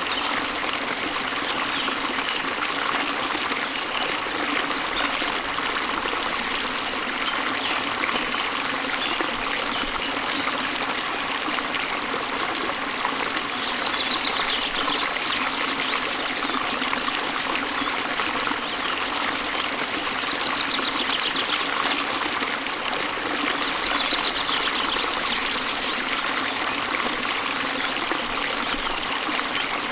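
Waterfall water splashing and rushing in a steady, even stream. A few short high trills come through now and then, which fits the birdsong the recording is sold for.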